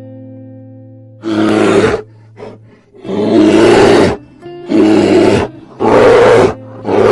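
Five loud animal roars, each under a second long and about a second apart, over steady background music.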